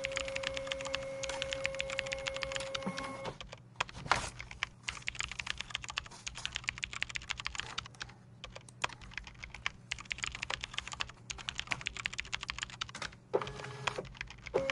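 Rapid, continuous typing on a computer keyboard, many keystrokes a second. A steady hum underneath cuts off about three seconds in, and one louder knock comes about a second later.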